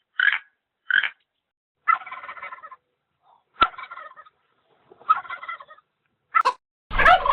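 An animal calling repeatedly: two short sharp calls, then several longer rattling, bubbling calls about a second apart, the loudest near the end.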